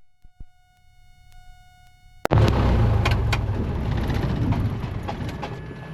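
The radio audio cuts out, leaving a couple of seconds of quiet with faint steady electronic tones. About two seconds in a sharp click is followed by the loud low rumble of the Cessna 172's cabin and engine, which slowly fades during the shutdown.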